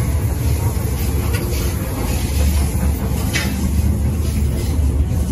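KTM sleeper train running on the rails: a steady low rumble.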